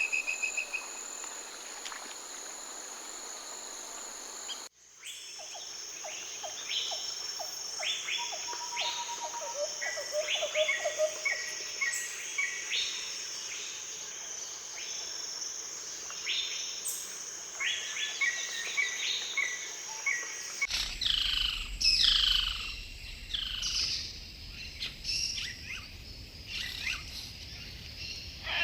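Forest birds calling and singing, in three recordings joined with sudden cuts. A steady high insect drone with a brief bird trill comes first. Busy chirps, repeated notes and trills follow, and near the end come clear falling whistled calls.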